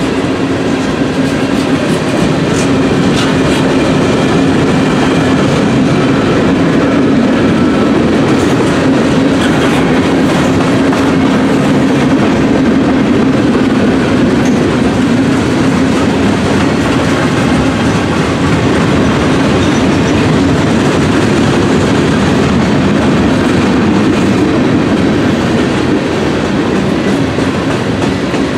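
Freight cars of a mixed train (boxcars, tank cars and covered hoppers) rolling past at close range: a loud, steady rumble and clatter of steel wheels on the rails, with a few sharper clanks.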